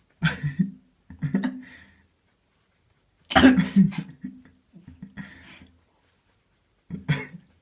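Five short cough-like vocal bursts, separated by brief silences.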